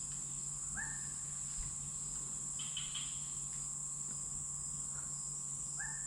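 Tropical rainforest insect chorus: a steady high-pitched drone, with a short rising call heard twice, about a second in and near the end.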